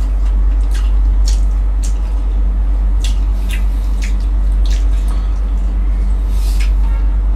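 Close-miked eating sounds of someone chewing fried fish and rice: irregular wet smacks and clicks of the mouth, over a steady low hum.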